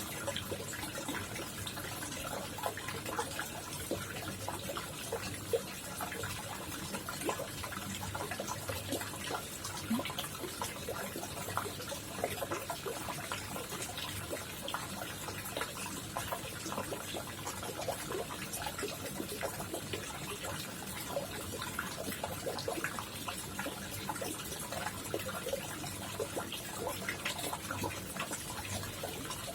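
Koi pond water trickling and splashing steadily, with many small splashes and drips.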